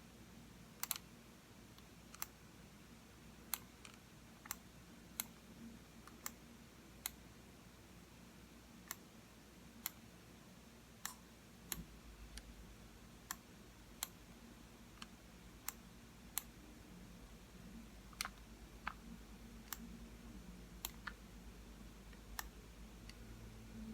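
Computer mouse buttons clicking: single sharp clicks at irregular gaps of about a second, now and then a quick double click.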